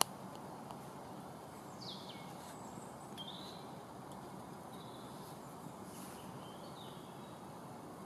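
Quiet forest ambience at dusk with a few faint, scattered bird calls as the birds fall silent: a falling whistle about two seconds in, then short chirps around three, five and a half and seven seconds.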